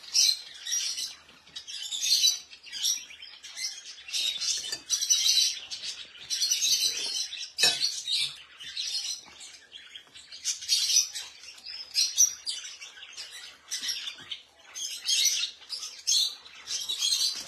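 Caged birds chirping continuously in quick clusters of high calls.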